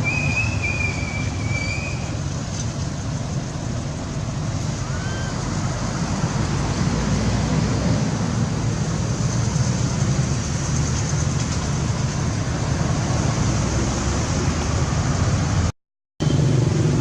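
Steady outdoor background rumble, with a short high wavering squeak in the first two seconds and a faint brief chirp about five seconds in. The sound cuts out completely for about half a second near the end.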